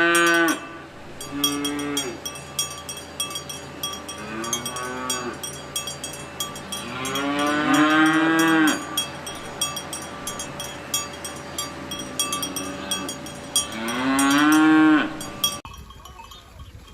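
Cattle mooing, several rising calls with the longest in the middle, while cowbells clink steadily. The mooing and bells stop abruptly near the end.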